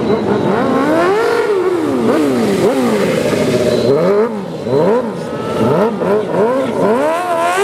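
Sportbike engine revving up and down repeatedly, its pitch climbing and dropping in quick swoops every second or so, as it is worked through stunt riding.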